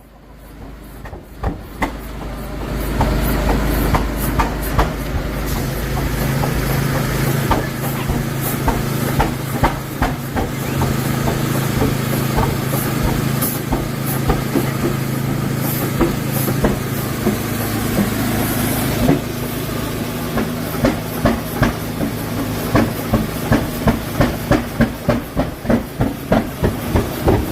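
Large early-1900s two-cylinder stationary gas engine starting up with hissing and a low mechanical hum, its exhaust beats settling into a slow, regular rhythm of about two a second in the later part.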